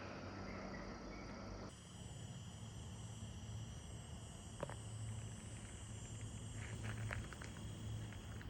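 Insects trilling steadily in a high, even chorus that changes pitch abruptly about two seconds in, over a steady low rumble, with a few faint clicks later on.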